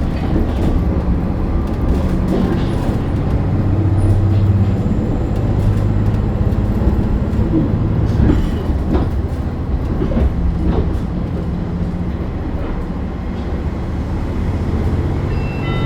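Diesel limited express train running, heard from inside the passenger car: a steady low engine hum and rumble with occasional knocks from wheels over the rails.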